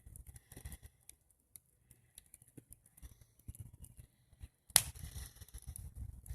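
Faint scattered small clicks and light rustling, with one sharp click about five seconds in.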